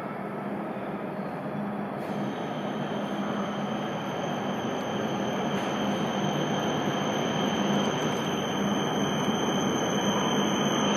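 E7 series Shinkansen train pulling into the station, its running noise growing steadily louder as it nears, with a steady high whine from about two seconds in.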